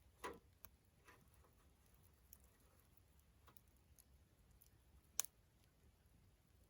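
Wood campfire burning quietly, with sparse sharp crackles and pops, the loudest about five seconds in.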